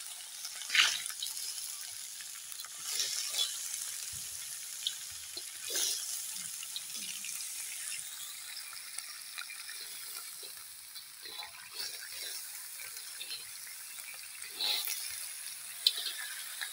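Flower crabs sizzling in a hot wok as a spatula stirs them, with a steady hiss broken by scrapes and clatters of shell against the pan. The loudest clatter comes about a second in, another sharp one near the end.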